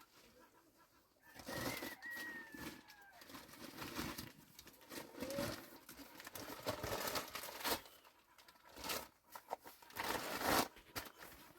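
Irregular rustling and handling noises, with a thin, slightly falling bird call between about one and a half and three seconds in.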